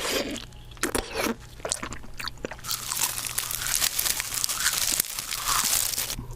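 Close-miked eating of crunchy food: a few separate crisp bites, then about three and a half seconds of continuous dense crunching from roughly two and a half seconds in.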